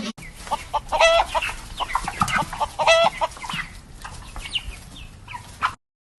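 Chickens clucking in a string of short calls, with two louder, longer calls about one and three seconds in.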